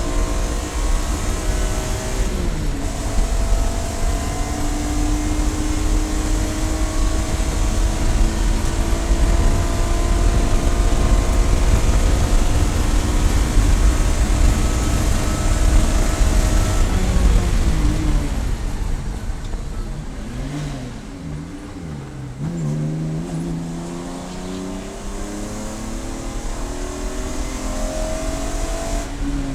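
Race car engine pulling hard through the gears. It shifts up about two seconds in and climbs in pitch for a long stretch. About two-thirds of the way through, the pitch drops in steps with quick blips as it downshifts, then it accelerates again.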